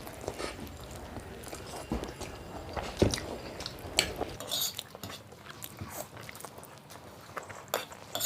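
Spoons or forks clinking and scraping against plates as Maggi instant noodles are eaten fast, with irregular sharp clicks a second or so apart.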